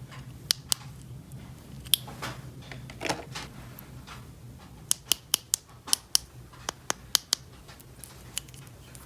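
Sharp, irregular clicks and taps of small plastic toy pieces being handled, with a brief scrape about three seconds in and a quick run of clicks in the second half, over a low steady hum.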